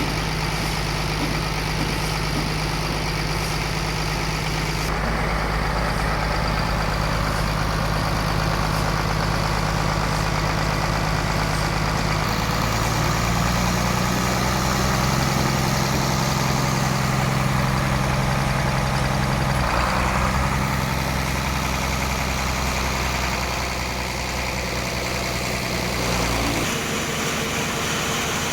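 A sawmill's engine running steadily. Its note shifts up about halfway through, then the low hum drops away suddenly near the end.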